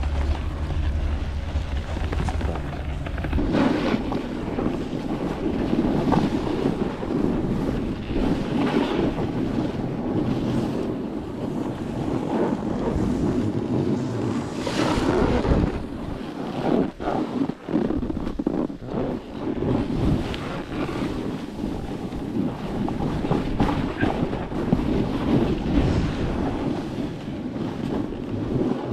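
Blizzard wind gusting hard and buffeting the microphone: a continuous roar that swells and dips. A heavy low rumble fills the first few seconds.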